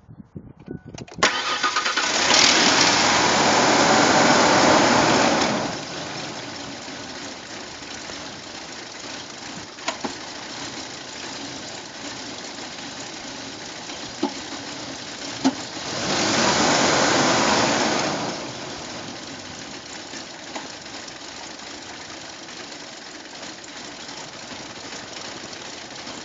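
1997 Ford Explorer engine cold-starting about a second in and running loud for a few seconds before dropping to idle. About two-thirds of the way through the idle swells up again for a couple of seconds and falls back. The owner blames a rough idle with a misfire (P0300-series codes) and fluctuating RPMs.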